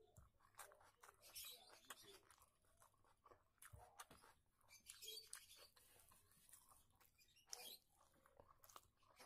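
Soft, close-up chewing of a mouthful of rice eaten by hand, with many small clicks and crunches.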